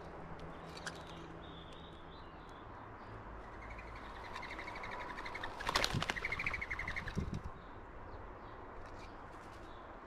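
A bird's chattering call, a quick run of pulsed notes lasting a few seconds, broken about six seconds in by a loud burst of wing flapping and a knock as birds scuffle on a wooden platform feeder.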